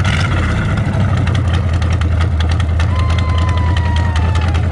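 The engine of a 1933 Ford roadster hot rod running steadily at low speed, a loud low rumble heard from the car's open seat. A thin whistle-like tone glides slightly down about three seconds in.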